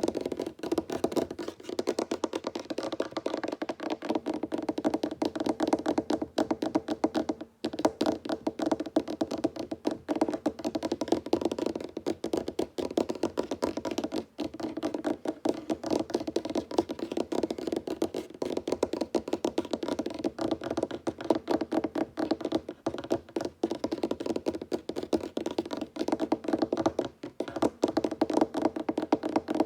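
Fingertips tapping rapidly on a wooden tabletop, a dense, continuous patter of small knocks with a few brief pauses.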